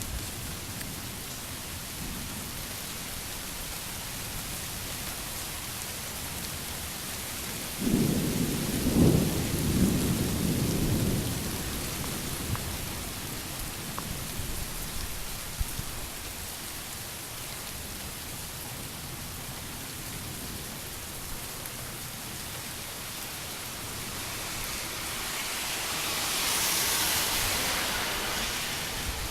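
Steady hiss of rain during a lightning storm, with a low rumble swelling up about eight seconds in and lasting about three seconds, and a higher hiss that swells and fades near the end.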